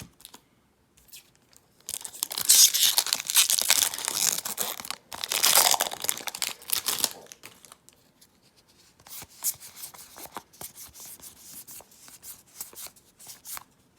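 Magic: The Gathering booster pack wrapper torn open and crinkled, in two long rips starting about two and five seconds in. Then a run of lighter clicks and rustles as the cards are handled.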